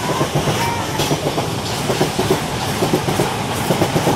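Southeastern electric multiple unit passing close beneath the bridge: a steady rumble with a quick, irregular clatter of wheels running over the track joints.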